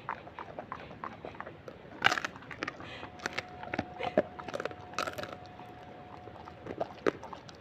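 A golden retriever chewing a crunchy treat: irregular sharp crunches and bites, the loudest about two seconds in.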